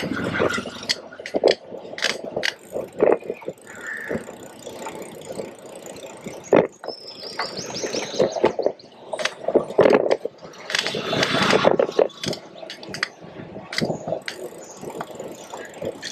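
Street traffic and ride noise: frequent short knocks and rattles over a steady hum of traffic, a brief high squeal about seven seconds in, and a louder rush of passing-vehicle noise around eleven seconds in.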